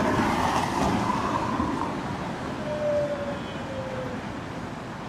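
Downtown city street traffic: a steady wash of passing vehicle noise, louder in the first couple of seconds, with a brief high tone that falls slightly about three seconds in.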